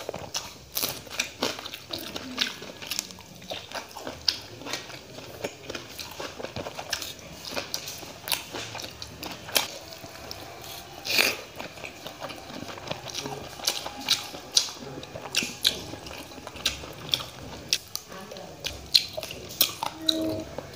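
Close-up eating sounds of rice and curry eaten by hand: wet chewing and smacking of the mouth, full of short sharp clicks throughout.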